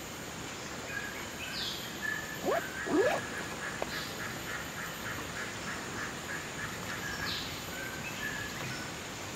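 Birds calling: a rapid run of short notes at one pitch, about five a second, lasting several seconds. Two loud calls slide sharply downward in pitch about two and a half and three seconds in.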